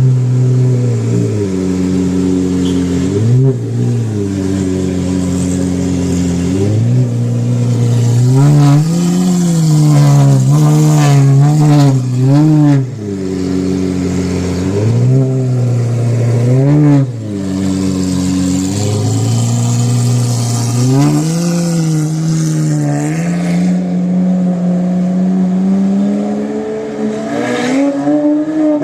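Lamborghini engine being revved loudly again and again, its pitch climbing and dropping in repeated blips, several in quick succession midway, then a longer rise held for a few seconds near the end.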